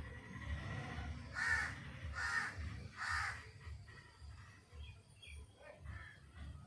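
A bird gives three harsh calls in quick succession, each about a third of a second long, then a few fainter, higher calls near the end.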